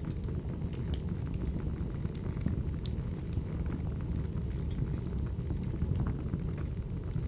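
Wood fire burning: a steady low rumble of flames with scattered sharp crackles and pops at irregular moments.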